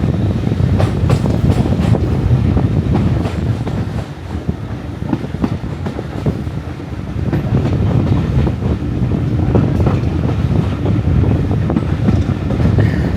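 Diesel-hauled heritage passenger train running, heard from aboard a carriage: a steady low rumble with wheels clicking over rail joints, easing off a little about four seconds in and building again.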